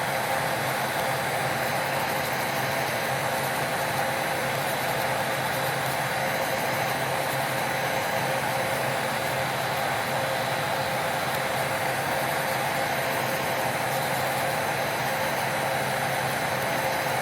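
Small electric motor running steadily, with a constant whine and a low hum and no change in speed or load.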